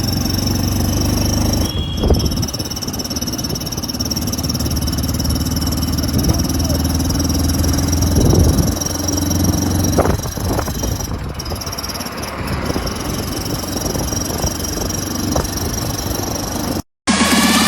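Hero Splendor Plus single-cylinder engine running through an aftermarket GCL silencer, a steady low exhaust note with a couple of brief louder rises.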